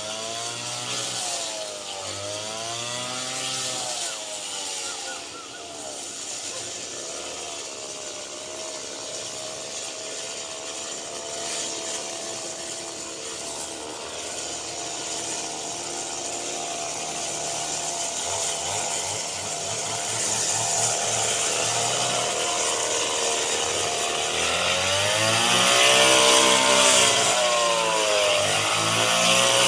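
Small engine of a rice-harvesting machine running under load, its speed rising and falling in repeated waves about every two seconds, holding steadier for a stretch in the middle.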